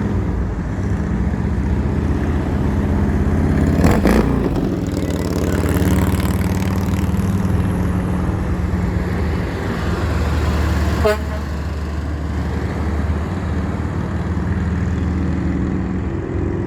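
Heavy diesel truck engines running steadily, with a loud burst of hiss about four seconds in and a brief rising horn toot about eleven seconds in.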